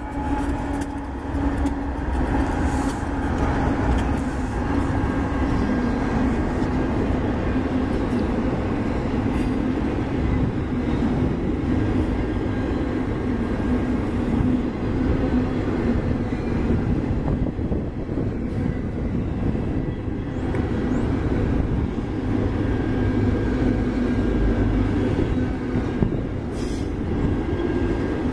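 Freight train passing close by. The drone of the trailing GE diesel locomotives fades in the first few seconds, giving way to the steady rumble and rattle of autorack cars' wheels on the rails.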